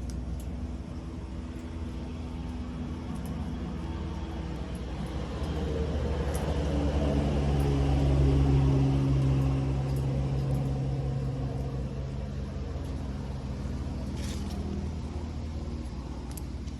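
A motor vehicle's engine rumble that grows louder to a peak about halfway through and then fades, as a vehicle passing by.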